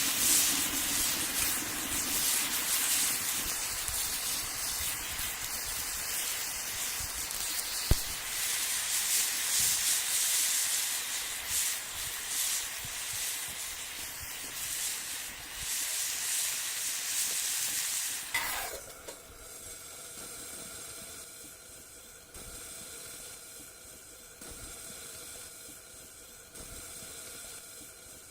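Food sizzling loudly in a hot cast-iron skillet over a wood fire. About eighteen seconds in it drops suddenly to a much quieter, steady hiss.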